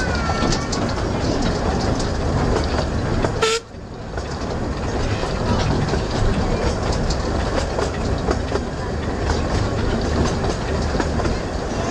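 Coaches of a 2 ft gauge railway running along the track, a steady rumble with wheel clicks and rattles, heard at an open coach window. About three and a half seconds in there is a sharp click and the sound briefly drops away before building back up.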